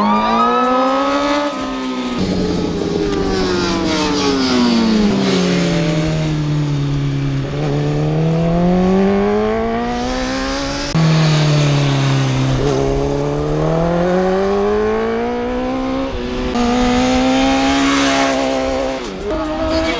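Racing superbike engines revving, their pitch falling and rising in long sweeps as they run through the gears. The sound breaks off abruptly and starts again about 2, 11 and 16 seconds in.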